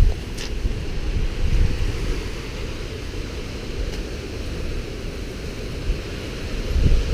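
Hurricane Irma's strong winds gusting, buffeting the microphone with a rumble that swells and eases, over a fainter rushing hiss.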